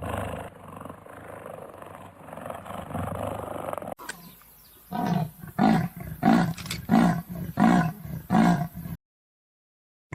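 A large animal growling low and rough, then giving a run of about eight loud grunting calls, roughly two a second, that stop abruptly.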